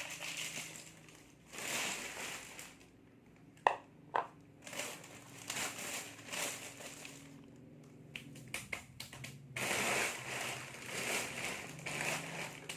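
Plastic snack packets crinkling and rustling as they are handled and torn open, in repeated bursts, with two sharp snaps a little under four seconds in.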